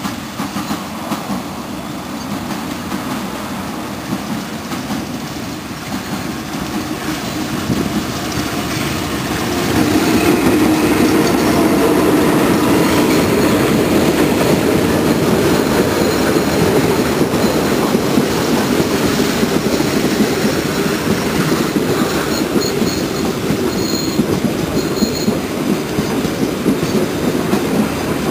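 Passenger train passing close by: a rumble that grows louder until about ten seconds in, then the steady clatter of the coaches' wheels over the rails. Brief high wheel squeals come in about three-quarters of the way through.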